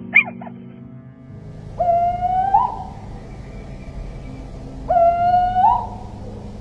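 Little owl calling: two drawn-out, pitched calls about three seconds apart, each rising slightly and lifting at the end. A brief sharp, high note comes right at the start, over quiet background music.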